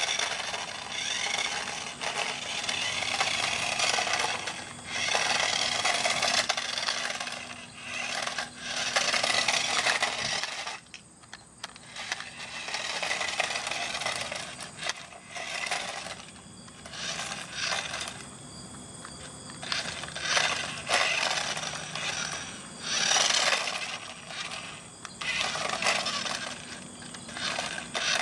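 Remote-control Lightning McQueen toy car driving on a driveway: plastic wheels rolling and scraping over the pavement with its small electric motor running, in stop-start runs of a second to a few seconds.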